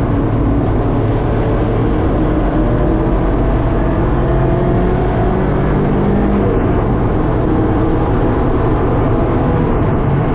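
Track car's engine and road noise heard from inside the stripped, roll-caged cabin, loud and steady, the engine note rising slowly as the car accelerates.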